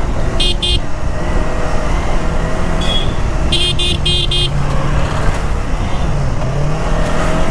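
Riding in traffic on a Yamaha R3 parallel-twin motorcycle: wind rushing over the microphone and the engine running with its pitch shifting. Vehicle horns beep in short toots, a pair near the start and a quick run of four about halfway through.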